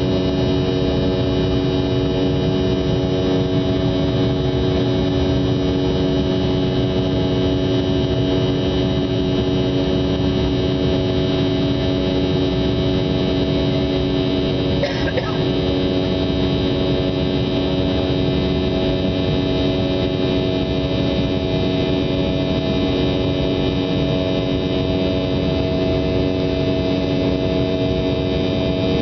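Aircraft engine running at a steady, unchanging pitch, a constant drone with a brief chirp about halfway through.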